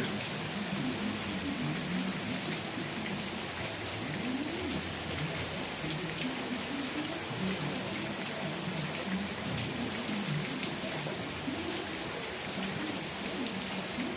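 Steady rain falling, an even hiss of drops on surfaces, with faint low wavering sounds underneath.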